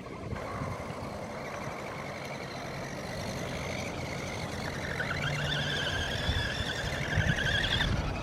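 Remote-control truck's motor whining as it drives, with a steady high tone that grows louder and wavers about five seconds in, then stops shortly before the end.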